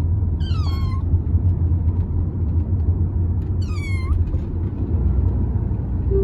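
American Shorthair kitten meowing twice, each meow short and falling in pitch, over a steady low rumble.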